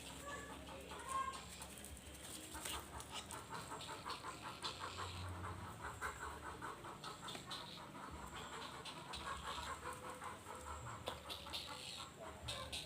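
Egrets and Javan pond herons calling at feeding time: a fast, rhythmic chatter of short repeated notes, about six or seven a second, starting a couple of seconds in and running on nearly to the end.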